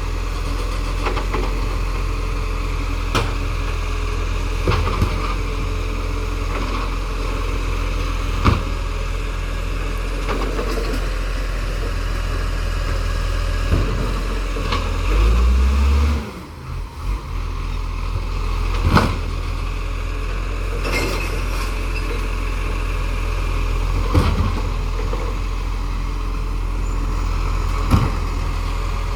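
Recycling truck's engine running steadily, with occasional sharp knocks every few seconds. About halfway through there is a brief louder surge with a rising tone, then a short dip in level.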